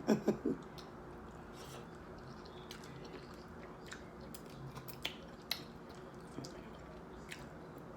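Faint close-up eating sounds: scattered small wet mouth clicks and smacks from a person eating fufu by hand, over a low steady room hum.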